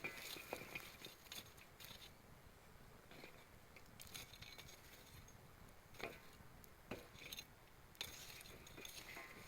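Campfire of gathered forest wood crackling quietly, with scattered sharp pops and ticks every second or so over a faint hiss.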